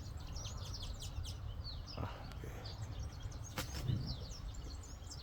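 Many small songbirds chirping busily, quick high chirps overlapping one another, over a steady low rumble. There is a single sharp click about three and a half seconds in.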